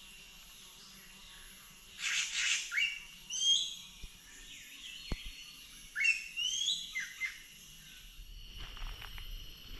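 A bird calling in two phrases of short notes that step upward in pitch, the first phrase opening with a harsh rasp.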